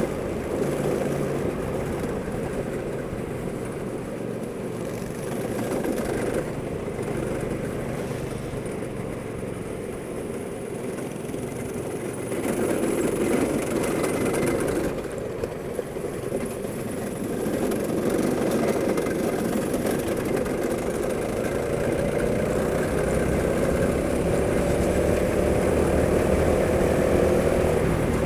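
Go-kart engine running, its loudness rising and falling with the throttle, then climbing steadily in pitch near the end as it accelerates.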